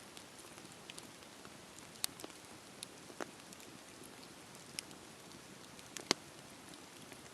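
Campfire crackling: irregular sharp pops and snaps from burning wood over a soft steady hiss, the loudest snap about six seconds in.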